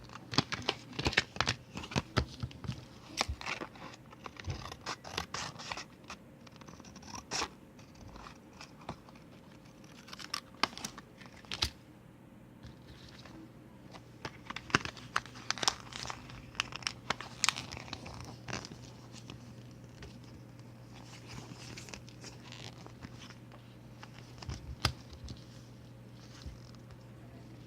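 A paper photo being handled and cut for a phone case: irregular crinkling and rustling with sharp snips and clicks, busiest at the start and again in the middle, thinning out toward the end.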